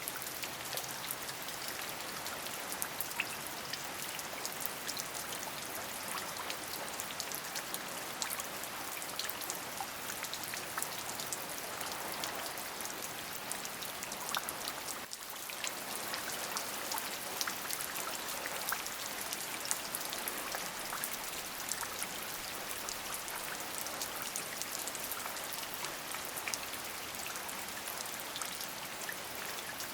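Steady rain: a constant hiss dotted with many single drops ticking, with a brief dip in level about halfway through.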